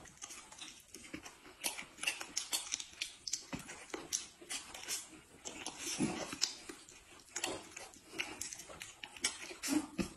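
Two people eating close to the microphone: a run of irregular wet mouth clicks and smacks from chewing and biting.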